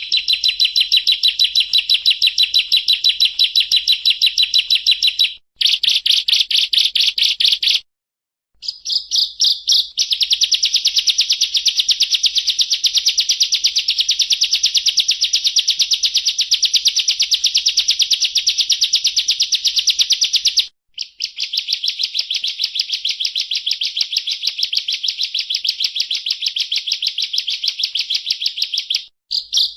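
Bar-winged prinia (ciblek) singing a loud, continuous trill of rapid repeated high notes, the fast 'ngebren' song style bird-keepers prize, broken by brief pauses about five, eight, twenty-one and twenty-nine seconds in.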